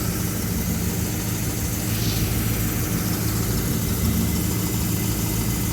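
1973 Dodge D100 pickup engine idling steadily, with its power steering pump turning and sounding healthy.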